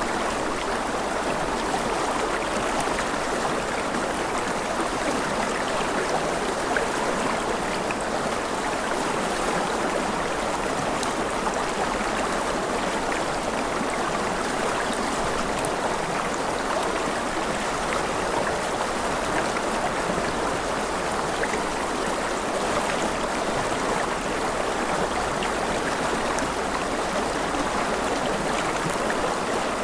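Steady flowing water of a stream, an even rushing and babbling without breaks.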